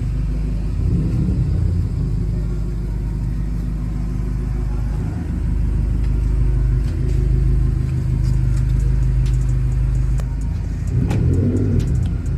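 Toyota Celsior's V8 running through a one-off muffler: a steady, deep exhaust rumble that swells briefly about a second in and again near the end.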